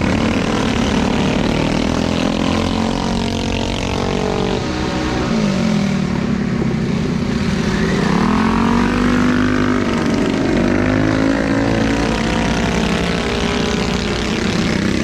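Several small minibike engines racing together, their pitches overlapping and sliding down and back up as riders back off and open the throttle.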